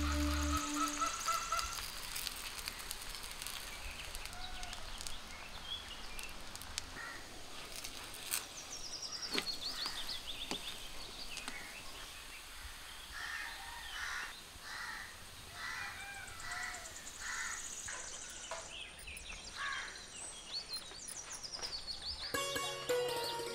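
Birds chirping and calling over a faint steady background hiss, with a run of repeated calls around the middle. Music is heard briefly at the very start and comes back near the end.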